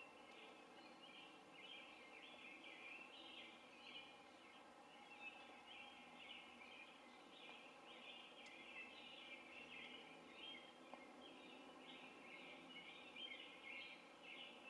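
Faint outdoor birdsong: many short chirps overlapping in a continuous chatter, over a light background hiss.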